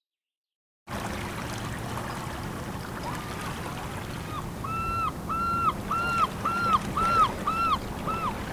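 A steady rush of water and wind, then, starting about halfway, a bird calling in a quick series of about eight short, even, same-pitched notes, roughly two a second.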